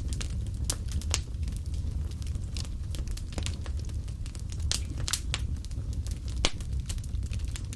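Wood fire crackling: irregular sharp pops and snaps from burning logs over a low, steady rumble of flame.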